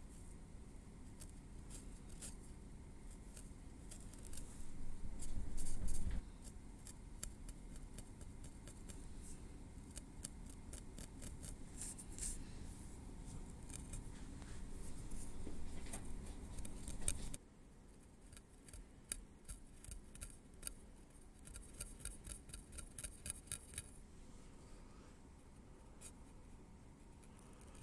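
Metal tweezers ticking and scraping softly close to the microphone during scalp care, over a low rubbing sound, with quick runs of small clicks in the second half.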